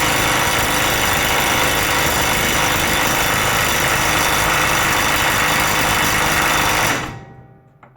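Parkside Performance PPDSSA 12 A1 12V cordless impact wrench hammering continuously on a bolt, then cutting out suddenly about seven seconds in as its over-temperature protection trips.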